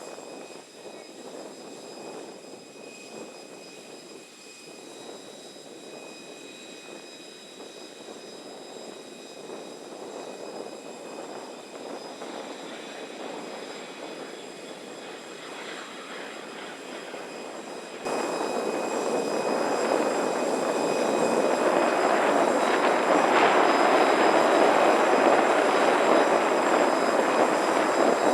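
Jet aircraft noise on an airport ramp: a steady rushing hum with a thin high whine held throughout. About two-thirds of the way in it jumps suddenly to a much louder rush.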